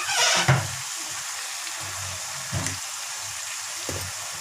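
Potato and cauliflower pieces frying in oil in a kadhai, a steady sizzling hiss. A short louder burst comes right at the start, and a couple of soft knocks follow later.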